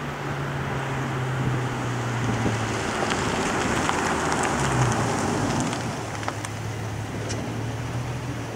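Infiniti G35 coupe's 3.5-litre V6, fitted with a Nismo catback and resonated test pipes, driving past at low revs. A steady low exhaust note shifts in pitch, with a swell of exhaust and road noise near the middle.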